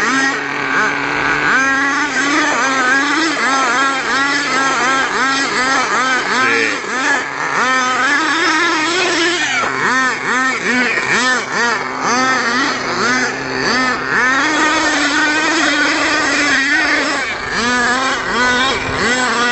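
Nitro RC pickup truck's small glow-fuel engine revving up and down over and over while the truck spins donuts on gravel, its high-pitched buzz rising and falling about twice a second.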